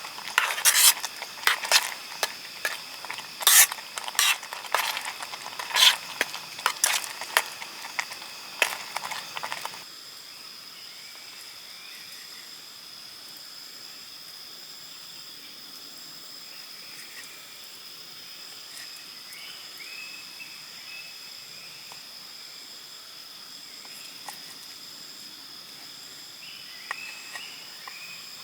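Clinks and scrapes of a utensil stirring in a cooking pan on a camp stove. About ten seconds in it cuts to forest ambience: a steady high insect drone with faint short bird chirps.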